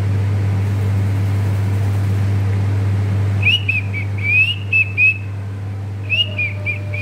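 Pet parrot whistling a run of short chirped notes that rise and fall, starting about halfway in, over a steady low hum.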